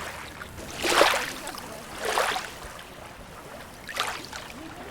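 Small sea waves lapping and washing at the shore, with three splashing surges over a steady low wash of water.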